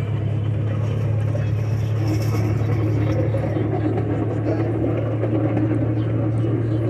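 Miniature ride-on train running steadily with a constant low engine hum, plus rougher running noise that grows from about two seconds in.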